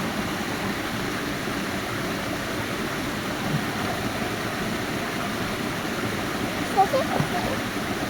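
Steady rush of flowing stream water, with a brief louder pitched sound about seven seconds in.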